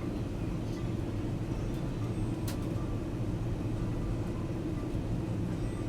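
Steady low rumble of jet engines and airflow heard inside an airliner's cabin during descent. There is a single brief click about halfway through.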